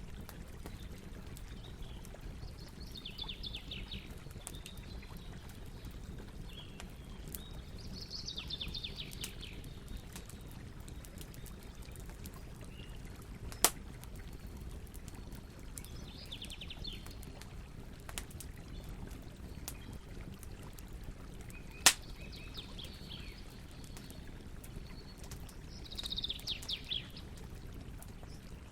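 Campfire burning with a steady low rush and scattered small crackles, with two loud sharp pops of wood, one about halfway through and one about three-quarters through. Birds give short trilling calls several times.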